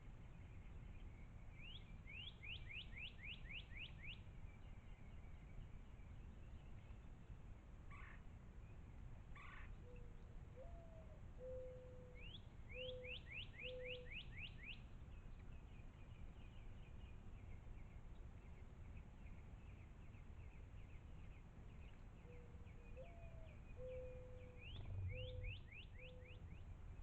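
Wild birds singing: a songbird gives a quick series of about eight sweeping whistles, three times. A lower cooing call, a rising note followed by several short even notes, sounds twice. There is a faint low background rumble throughout.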